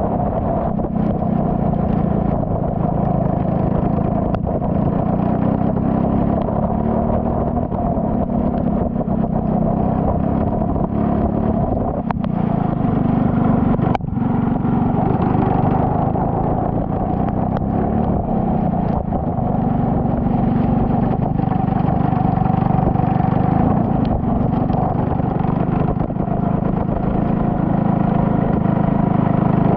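Turbocharged Saab 9-3 race car's engine running hard on track, heard steadily throughout with its pitch shifting as speed changes and a brief dip about halfway through.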